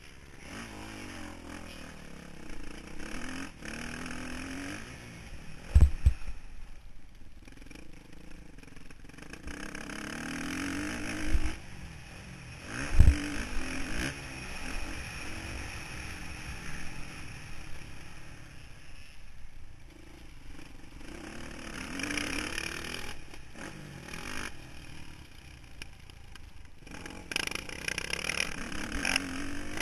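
Motocross bike engine revving up and dropping back again and again as the bike accelerates and slows around the track. Two heavy thuds, about six and thirteen seconds in, are the loudest sounds.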